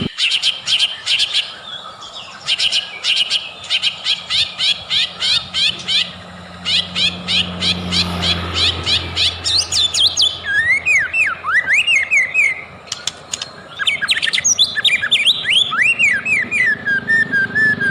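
White-rumped shama (murai batu) singing: a fast string of sharp, repeated chattering notes for about the first ten seconds, then a run of clear whistled notes that slide up and down.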